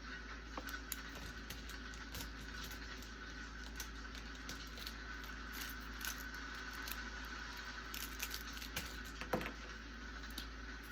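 Steady rain ambience with many small, irregular clicks and taps scattered through it, and one louder tap about nine seconds in.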